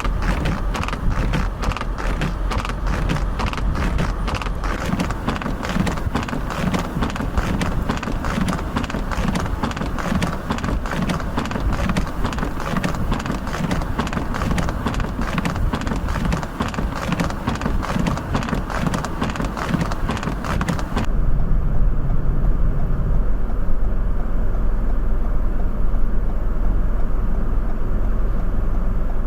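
A vehicle running in deep snow with a rapid, even clatter of about three or four knocks a second. About three-quarters of the way through it cuts to strong wind buffeting the microphone over a low rumble.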